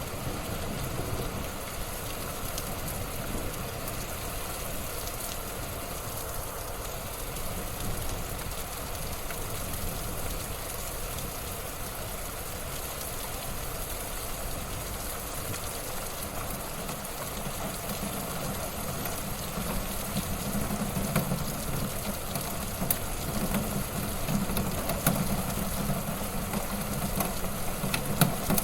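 Wood fire burning in a fireplace: a steady low rumble of flames with scattered crackles and pops, which come more often in the second half.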